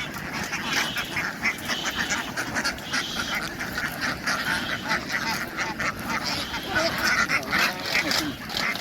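A large flock of domestic ducks quacking all at once, a dense, steady clamour of many overlapping calls.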